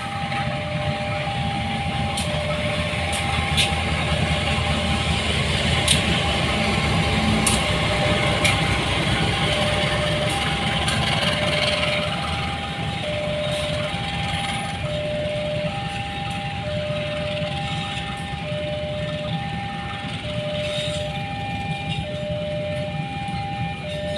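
Railway level-crossing alarm sounding an even alternating two-note tone over the rumble of a passing train, with sharp clicks. The rumble eases about halfway through.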